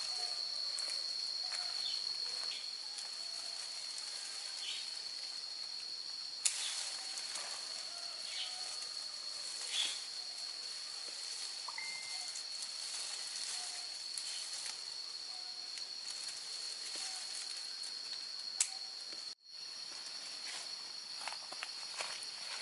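Outdoor rural ambience dominated by a steady, high-pitched insect drone, with scattered faint clicks and short faint calls; the sound cuts out for an instant near the end.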